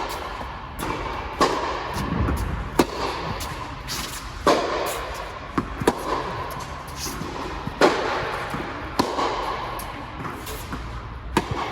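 Tennis rally: a ball struck with the strings of a Yonex Percept 100D (18x19 pattern) and other racquets and bouncing on the court, one sharp pop every one to two seconds at an uneven pace, the loudest hit near the end.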